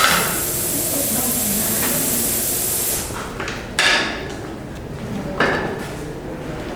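Steady high hiss of a greenhouse misting system that stops suddenly about three seconds in, with a few sharp knocks or clatters: one at the start, one just before four seconds in and one about five and a half seconds in.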